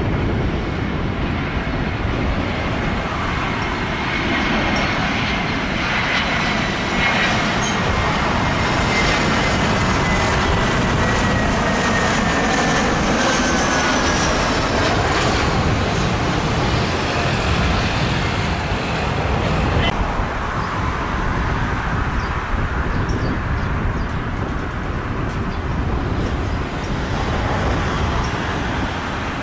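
Airbus A330 jet airliner passing on landing: a steady jet roar with a high turbine whine that slowly falls in pitch through the first half.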